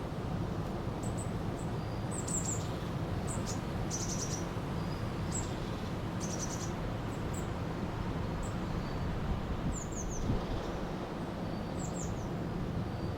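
River water rushing steadily, with songbirds giving short high chirps and brief trills every second or two over it.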